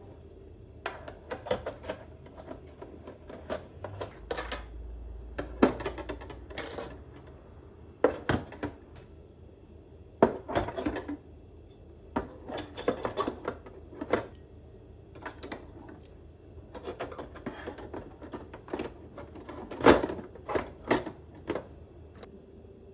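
Dishes and kitchen containers clinking and clattering as they are handled and set down, in irregular clusters of knocks, over a faint steady hum.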